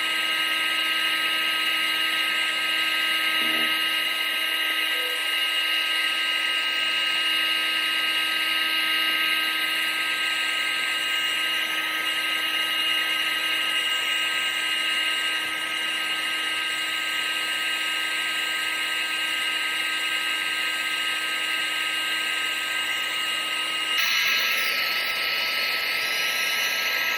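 Vacuum cleaner running steadily: a constant motor whine over rushing air, with a slight change in its tone near the end.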